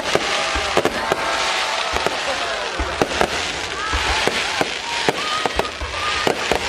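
Fireworks going off: a rapid, irregular string of sharp bangs, several a second, over a steady hiss.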